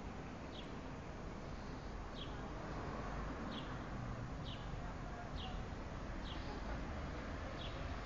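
A small bird chirping, short high notes that slide downward, repeated about once a second over a steady outdoor hiss.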